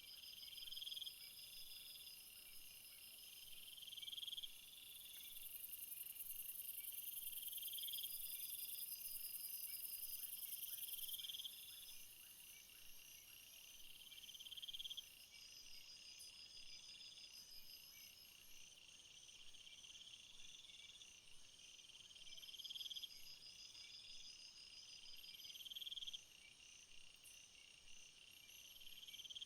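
Chorus of crickets and other field insects singing. One song swells into a chirp phrase every two to three seconds, under a steady pulsing trill and a very high buzz that is loudest for the first half.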